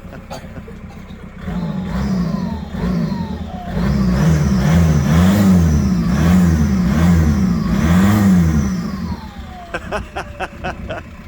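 A mk2 Golf's swapped-in TDI PD diesel engine being revved several times in a row, its pitch rising and falling with each blip of the throttle. A few sharp clicks come near the end.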